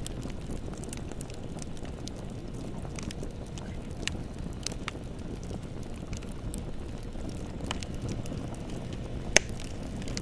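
Bonfire burning with a steady low rumble and scattered sharp wood crackles and pops, one louder pop near the end.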